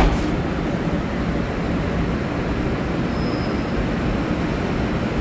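Taiwan Railway EMU900 electric multiple-unit train running past at close range and pulling away: a steady rumble of wheels on rail, with a couple of sharp knocks right at the start.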